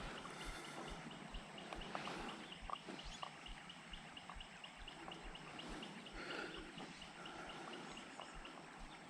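A small animal calling outdoors with a steady run of short, high chirps, about four a second, with a few light clicks scattered among them.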